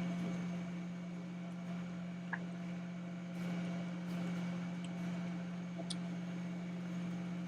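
Sailboat's inboard engine running at a steady low hum, with a couple of faint clicks about two and six seconds in.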